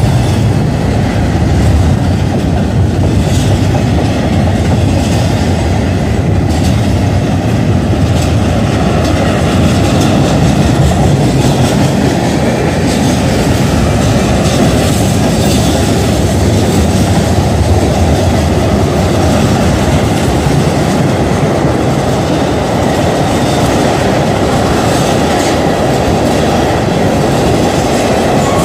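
Kansas City Southern freight train rolling past at close range: a steady loud rumble of steel wheels on rail, with clickety-clack as the cars pass over rail joints.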